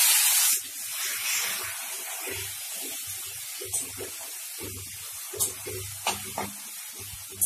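Boiled onion paste sizzling loudly in hot oil just after going into the pan. About half a second in the sizzle drops to a steadier, quieter sizzle, broken by irregular low knocks and a few sharp clicks.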